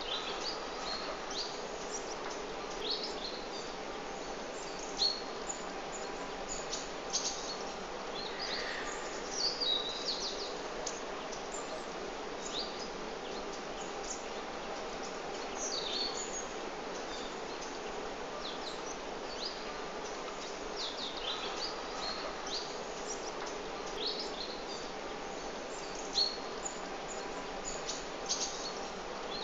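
Small birds chirping in short, high calls, scattered every second or so, over a steady outdoor background hush.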